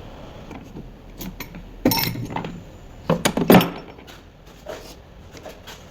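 Metal tools and engine parts being handled: scattered clicks and two short bursts of clattering knocks, the louder one about three and a half seconds in.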